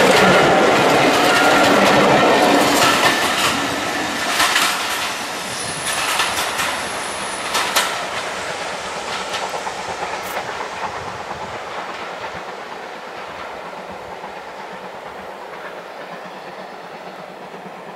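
Passenger train's coaches rolling past with wheels clicking over the rail joints, then fading steadily as the train draws away. The clicks come further apart as it goes, and a brief high squeal sounds about six seconds in.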